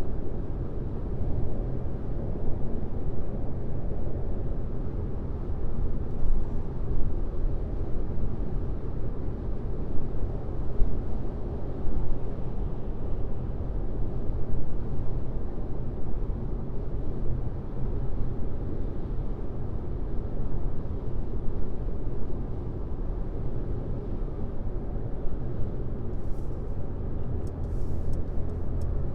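Steady road noise of a car driving on a highway: a low, even rumble of tyres on the road with engine hum, unchanging throughout.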